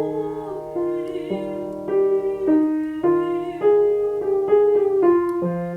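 Piano playing a slow chordal accompaniment, a new chord every half second to a second, with a voice singing along on a sustained vowel as a vocal exercise.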